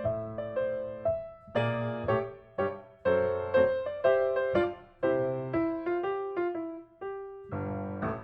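Background piano music, with chords struck about once or twice a second, each ringing and fading.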